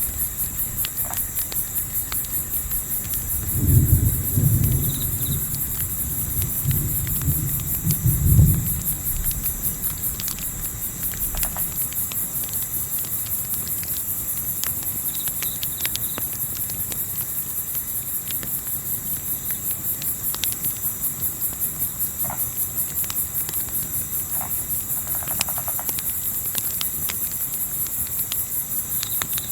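Night-time crickets chirping in a steady, evenly pulsing high trill. For a few seconds near the start, low rumbling thumps rise over it, and a few faint clicks are scattered through.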